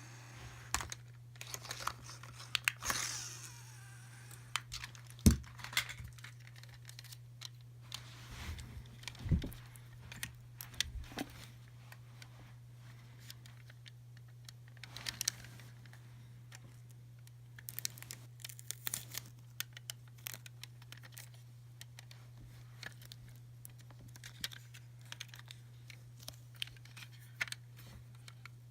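Hands opening and handling plastic surprise eggs and toys: scattered clicks and knocks of plastic, with a few brief bursts of crinkling and tearing wrapper, over a steady low hum.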